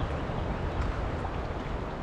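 Wind buffeting the microphone in strong gusty wind: a steady rushing noise with a heavy low rumble.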